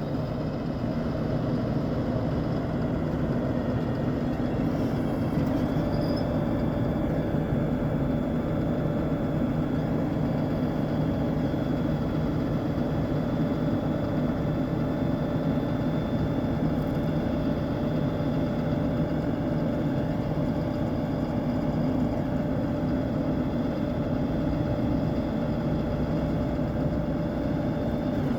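2015 Ford F750 rollback truck's engine idling steadily, an even low rumble with a faint constant whine.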